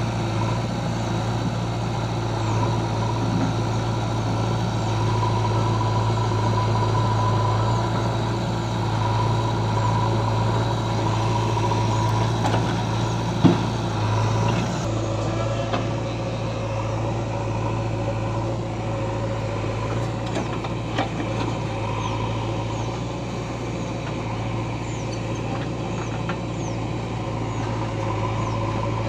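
Diesel engines of a JCB 3DX backhoe loader and a tractor running steadily under work, with one sharp knock about halfway through.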